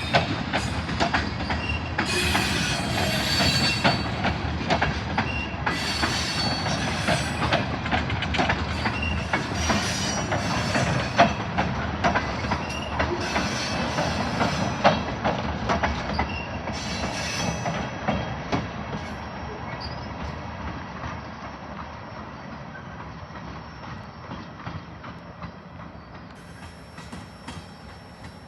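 Train cars rolling along the rails, with sharp clicks as the wheels cross rail joints and intermittent high wheel squeal. The sound fades away over the last ten seconds or so.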